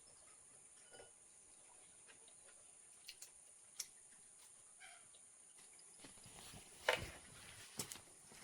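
Quiet scattered light clicks and knocks, with one louder knock about seven seconds in, over a steady high-pitched hiss.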